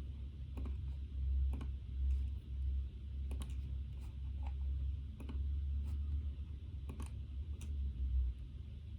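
Computer keyboard keys pressed now and then, about ten sharp, irregular clicks, over a steady low rumble.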